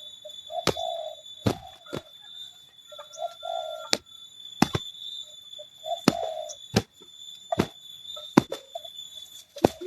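Spotted doves cooing in short, low notes, among about a dozen sharp slaps spread irregularly through the moment, the sound of birds fighting in physical contact. A steady high-pitched tone runs underneath.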